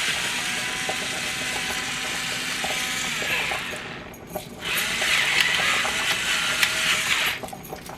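Hand-twisted pepper mill grinding peppercorns, a rasping ratchety grind in two spells with a short pause about halfway through.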